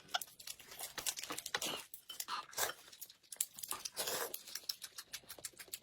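Close-up eating noises: crinkly tearing and crumpling, as of a plastic food wrapper, among clicky crackles and chewing.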